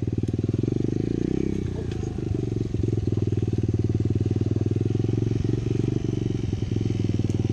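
Apollo dirt bike's single-cylinder four-stroke engine running under the rider, a rapid even firing beat, easing off briefly about two seconds in with a few knocks before picking up again.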